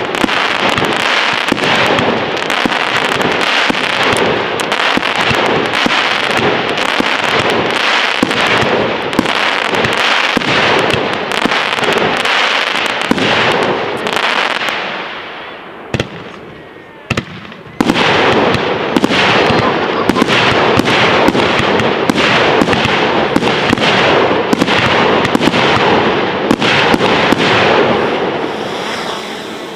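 Fireworks display going off in a dense, continuous barrage of rapid cracks and bangs. It dies down about fifteen seconds in, leaving a couple of single bangs, then starts again just as thick and fades near the end.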